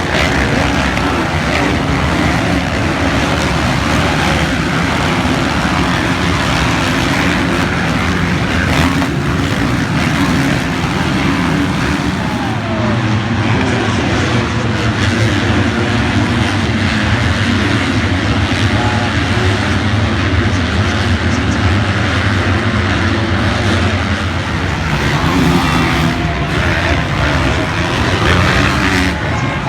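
Motocross motorcycle engine running loudly, its pitch shifting up and down, over a constant rush of noise.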